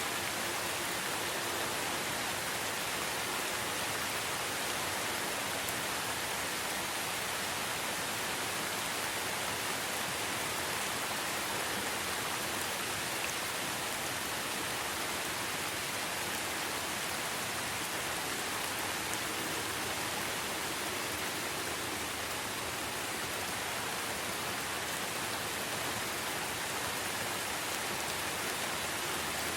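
Steady, even rainfall: a dense hiss of rain with no distinct drops standing out.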